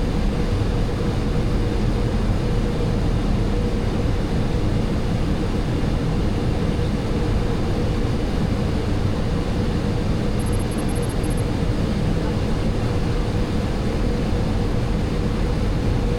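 Steady flight-deck noise of a Boeing 737-800 in flight: airflow rush with a constant low engine hum. A short row of faint high pips about ten seconds in.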